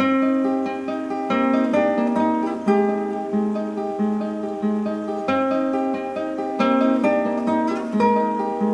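Background music on acoustic guitar: plucked notes and chords, each ringing and dying away, several a second.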